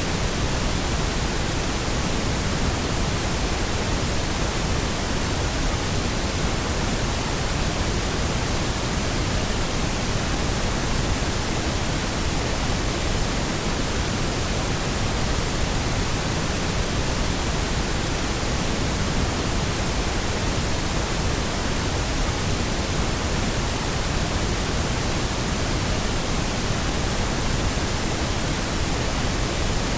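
Steady pink noise: an even, unchanging hiss spread across the whole range, generated as a sound-masking sleep aid.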